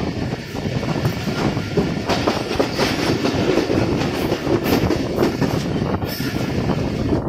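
Moving passenger train heard from an open coach doorway: the steady running rumble of the coach's wheels on the track, with irregular sharp clacks now and then.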